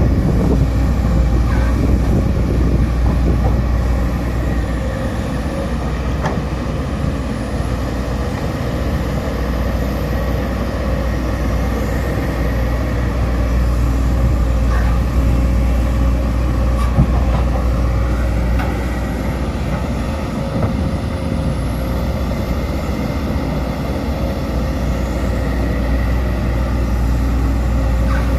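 Sumitomo SH210 hydraulic excavator running steadily at working speed, its diesel engine's deep hum mixed with a steady whine. The pitch rises a little about two-thirds of the way through, and there are a few faint knocks.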